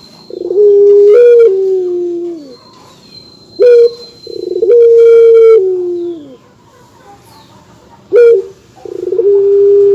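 Dove cooing: three repeated coos about four seconds apart, each a short opening note followed by a long, low held note that slides down in pitch at the end. Brief thin higher chirps sound alongside.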